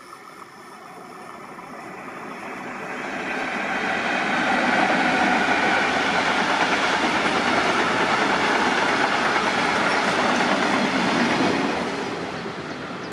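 A train passing close by: a rushing rumble of wheels on rail that builds over about four seconds as it approaches, holds loud and steady for several seconds as the carriages go by, and eases slightly near the end.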